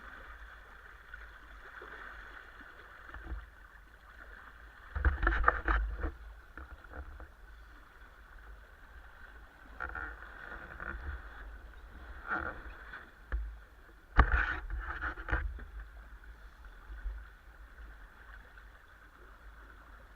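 Water rushing steadily along a small sailing dinghy's hull, with low wind rumble. A few louder bursts of splashing and buffeting come about five seconds in and again around fourteen seconds.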